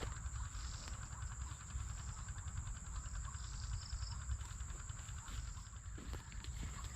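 Insects chirring steadily in a high, thin tone, with a low uneven rumble underneath.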